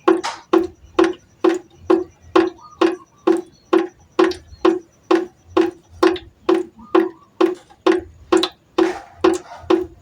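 Water droplets falling one at a time into a pot, a little over two drops a second in an even rhythm. Each drop lands with a sharp plink and a brief, low, hollow ringing tone.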